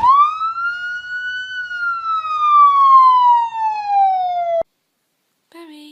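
A dog howling: one long howl that rises quickly in pitch, then slowly falls, and is cut off abruptly about four and a half seconds in.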